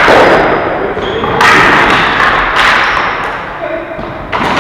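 Ball hockey play: a series of thuds and knocks as the ball and sticks hit the boards and floor, each ringing out briefly. The loudest comes right at the start and another about a second and a half in.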